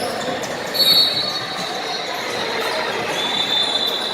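Basketball game noise in a gym: court and crowd hubbub with two long, high-pitched squeals, the first starting about a second in and the second near the end.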